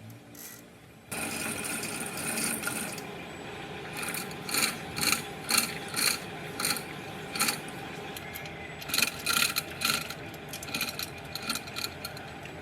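Hand scraping and rubbing on a part of an old rusted water pump: a steady rasp starts about a second in, then turns into short strokes about two a second, with a brief pause midway.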